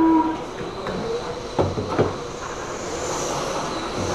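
A short electronic beep cuts off at the start. Then radio-controlled trucks run on the track: a steady mechanical din with two sharp knocks about a second apart, and a high electric-motor whine rising near the end.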